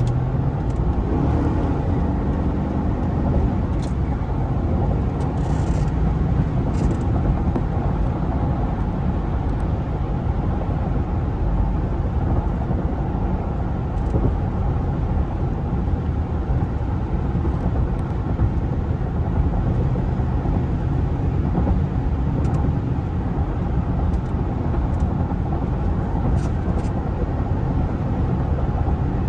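2005 Cadillac Escalade with a 6.0-liter Vortec V8, driving: engine and road noise, low-pitched and steady, with a faint engine hum showing more clearly in the first few seconds.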